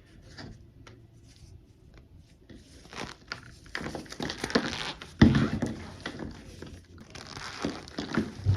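Cornstarch-coated gym chalk squeezed and crushed by hand, giving squeaky crunching. There are a few faint crackles at first, then dense crunching from about four seconds in, with one heavy crunch just after five seconds.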